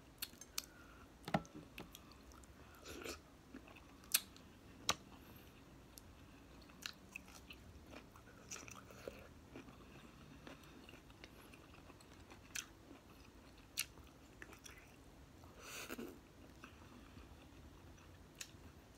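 A person chewing and eating seafood with her fingers: quiet chewing with scattered short, sharp wet clicks and smacks every second or two.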